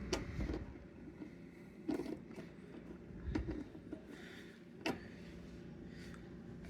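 Scattered light knocks and clicks of tiller parts being handled and fitted by hand, about five short impacts over several seconds.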